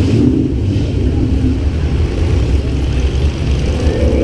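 Car engines running with a steady low rumble; a steady drone joins in near the end.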